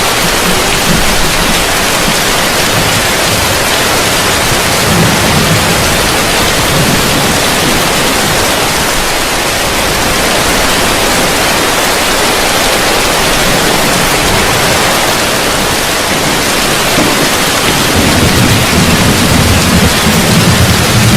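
Heavy rain falling steadily on a roof, a dense even hiss. A low rumble of thunder swells briefly about five seconds in and grows again near the end.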